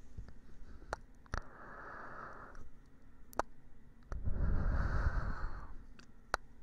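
Close-miked ASMR ear-cleaning sounds: scattered sharp clicks and two bouts of scratchy rubbing right at the microphone's ear, the second, about four seconds in, the longest and loudest.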